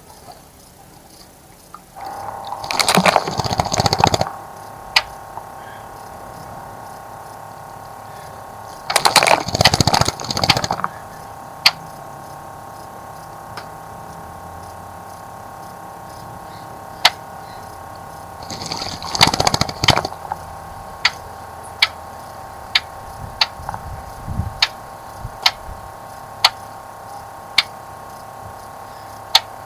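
A bird splashing in a garden bird bath in three bursts of a second or two each, over a steady machine hum that starts a couple of seconds in. Sharp ticks or clicks come at short, regular intervals in the last third.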